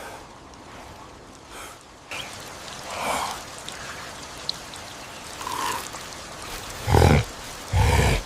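Steady rain falling, with several short grunts over it; the two loudest come about a second apart near the end.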